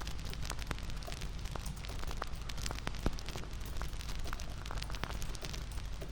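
Bonfire crackling: a steady low rush of burning with irregular sharp pops and snaps, one louder pop about three seconds in.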